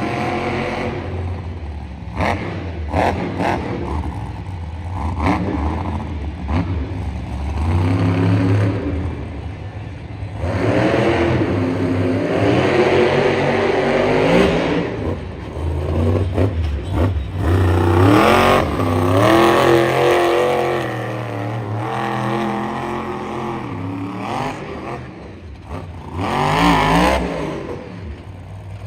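Monster truck engine revving hard, its pitch climbing and dropping again and again as the throttle is worked, with occasional knocks and clatter.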